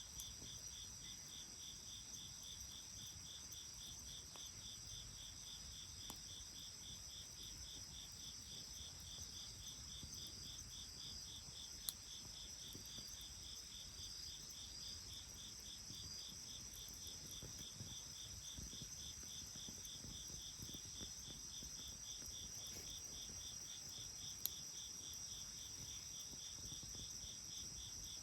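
Insects chirping steadily in a garden chorus: one rapidly pulsing chirp and a continuous high trill. Two sharp clicks stand out, about a third of the way in and near the end.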